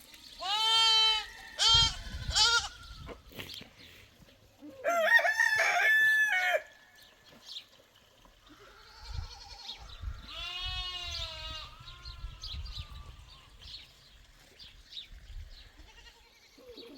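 A rooster crowing several times: three short calls, then a long loud crow about five seconds in and a softer one around the tenth second.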